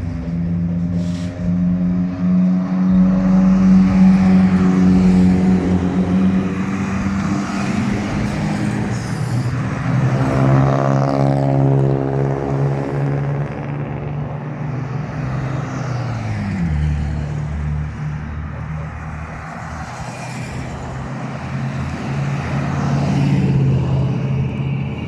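Trucks driving past in a convoy with their engines running; one engine's pitch drops about sixteen seconds in.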